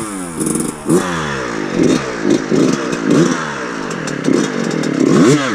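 Dirt bike engine revved in a quick series of short throttle blips, its pitch rising and falling with each one, as the rider works clutch and throttle to get the bike over an obstacle.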